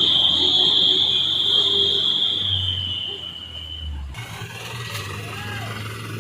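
Heavy truck's diesel engine running low under a loud, steady, high-pitched whine that fades out about three seconds in; about four seconds in the sound changes abruptly to a lower, steady engine idle.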